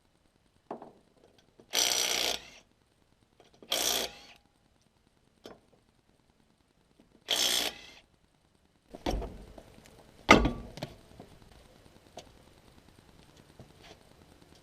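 Three short bursts of a pneumatic air tool, each under a second, followed by several knocks and one loud bang about ten seconds in, then light clicks.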